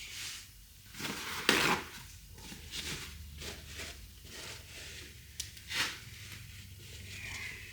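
Short, uneven scrapes and knocks of hand work on a metal hub, typical of a gasket scraper working at a cooked-on gasket. The loudest scrape comes about one and a half seconds in, with smaller ones near the end.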